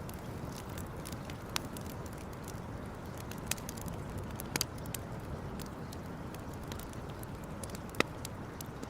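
Campfire burning with a steady hiss, crackling with a few sharp pops, the loudest near the end.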